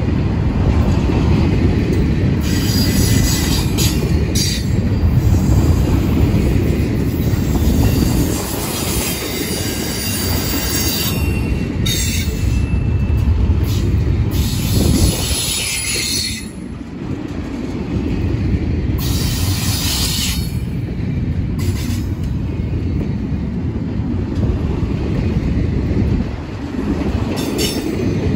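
CSX intermodal freight train's well cars rolling past: a steady low rumble of steel wheels on rail, with high-pitched wheel squeal coming and going in stretches of a second or a few seconds.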